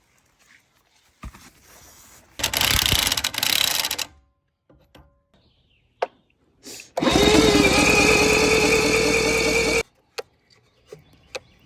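Handheld power tool, likely a drill, running in two bursts: a short one about two and a half seconds in, then a longer, louder one that spins up to a steady whine and cuts off sharply, with light knocks and clicks in between.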